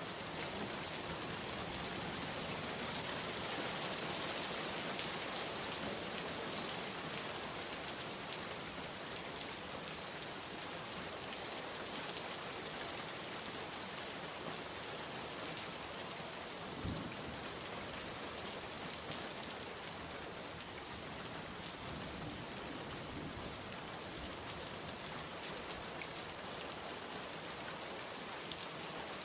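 Steady rain falling, with scattered individual drops ticking through it. There is one short soft thump a little past halfway.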